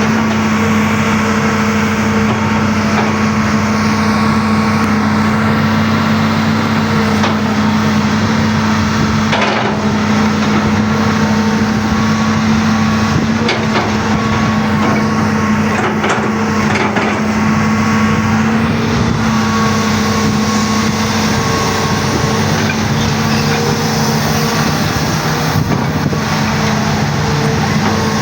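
Excavator engine running with a steady, unchanging hum, with a few faint knocks about ten and sixteen seconds in.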